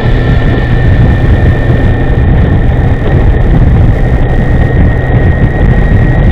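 Riding noise from an electric scooter on the move: a steady low rumble of wind and road, with a steady high-pitched whine running through it.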